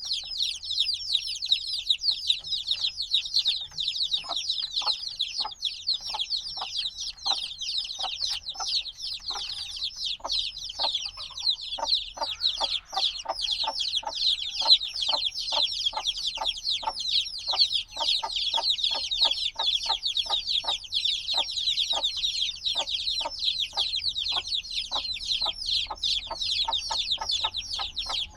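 A brood of chicks a few days old peeping constantly: many overlapping, high, short, down-slurred chirps. From a few seconds in, a regular soft tapping about twice a second runs underneath.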